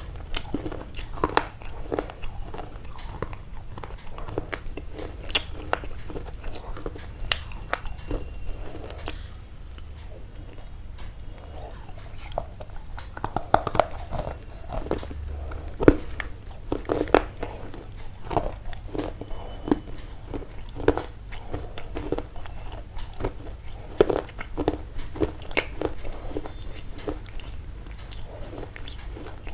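Close-up chewing and crunching: irregular crisp crunches and clicks, several a second at times, over a low steady hum.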